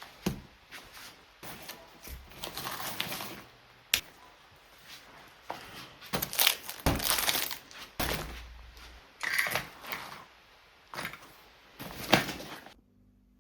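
Objects being handled in a small room: irregular rustling and knocking, with a sharp click about four seconds in, cutting off abruptly near the end.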